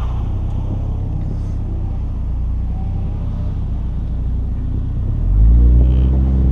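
Car engine running with a steady low rumble, getting louder about five seconds in.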